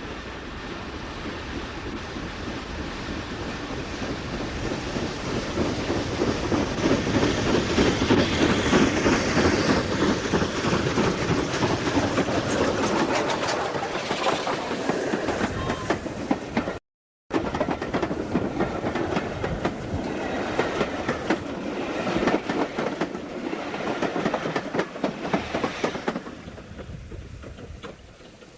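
Train hauled by GER N7 0-6-2 tank engine 69621 running past, its wheels clattering over the rail joints. The sound builds to a peak, cuts out for a moment a little past halfway, then carries on and fades away near the end.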